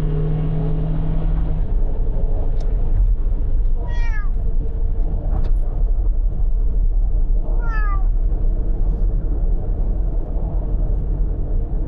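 A cat meows twice, about four seconds apart, each meow short and falling in pitch, over the steady low rumble of a car driving.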